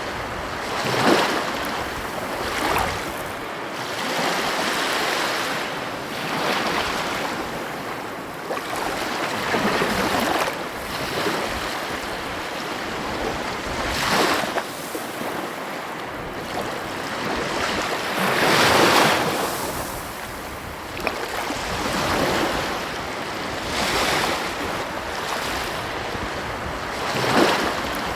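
Ocean surf: waves breaking and washing over a steady hiss of water, with a louder surge every three to five seconds.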